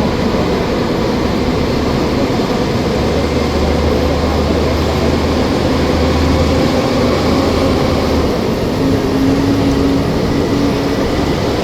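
Disney resort parking tram running along the road: steady engine and road noise, with a low hum that drops away about eight seconds in.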